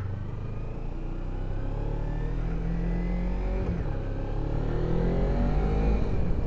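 Kawasaki Ninja 300's parallel-twin engine accelerating, its pitch rising through a gear, dropping briefly at a gear change about three and a half seconds in, then rising again.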